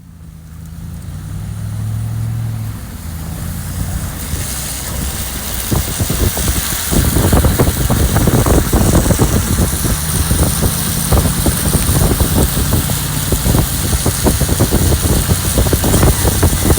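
A vehicle's engine running as it drives into floodwater, with a rushing hiss building from about four seconds and dense, choppy splashing of water against the vehicle from about seven seconds in.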